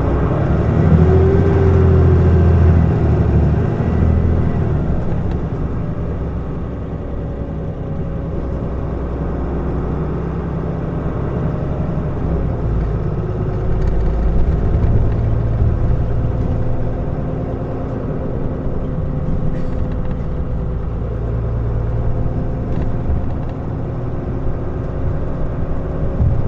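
2012 Mitsubishi Fuso Aerostar city bus's diesel engine running as the bus drives along, pulling harder and easing off a few times, with the loudest stretch near the start.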